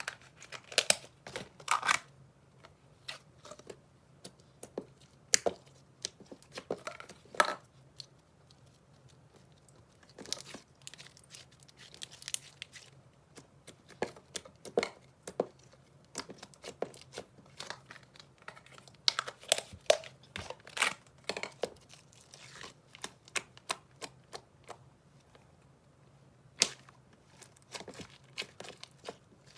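Slime being squished, poked and stretched by hand, giving irregular sharp pops and crackles in clusters with short quieter gaps between them.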